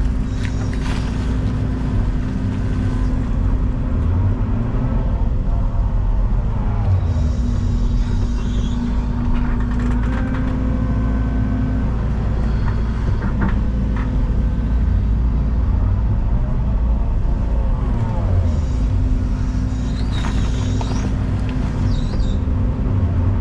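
Excavator's diesel engine running steadily with a hydraulic whine that rises and falls in pitch as the arm works, and a few short clanks from the bucket working stone.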